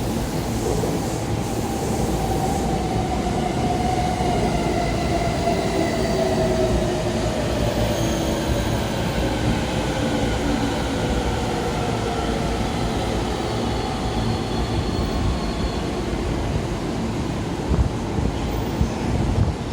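Electric train moving along a station platform track, its running noise steady under a whine that slowly falls in pitch as it slows.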